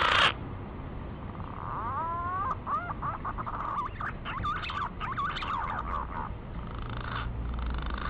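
Green pigeon (punai) song: a string of wavering, gliding whistles, some rising and falling in pitch, from about two seconds in, with fainter calls near the end. Just after the start the tail of a louder, harsher call cuts off.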